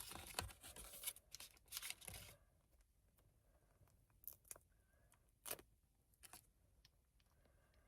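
Plastic packaging of a sushi pack being torn and crinkled for about two seconds, then a few soft clicks and taps.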